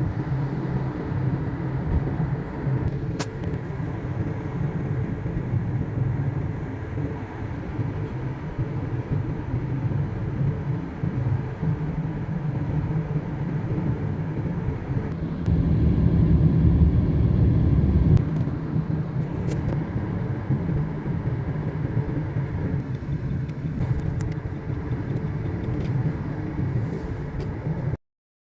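Steady car road and engine noise at highway speed, heard from inside the cabin. The low rumble swells louder for a few seconds about halfway through, then the sound cuts off abruptly near the end.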